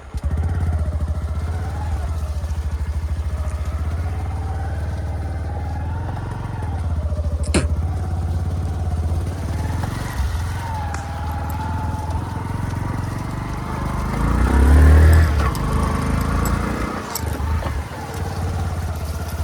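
A motor vehicle's engine running steadily under way, with a wavering pitch. It revs up and back down about fourteen to sixteen seconds in, and there is a single sharp click about seven and a half seconds in.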